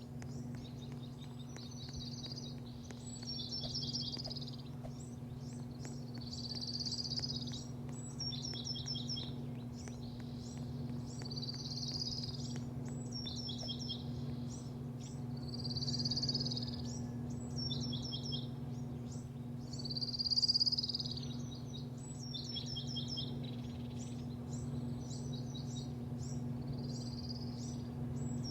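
A bird singing the same short phrase over and over, a call followed by a quick run of falling notes, repeating every few seconds over a steady low hum.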